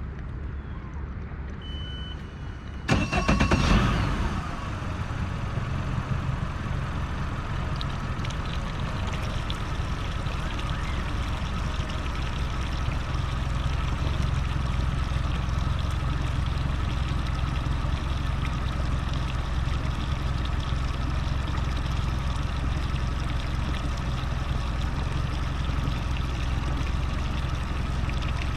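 Mercury 150 hp FourStroke outboard motor running steadily. A short beep comes about two seconds in, and a loud burst about three seconds in, after which the engine note stays even.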